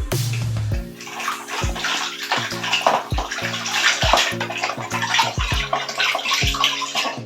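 Water running and splashing as fridge parts are washed by hand, over background music with a steady beat.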